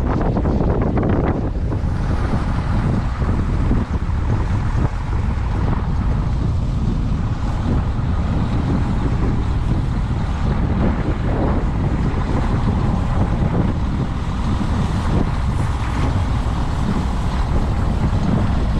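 Heavy harvest machinery running steadily, with wind buffeting the microphone.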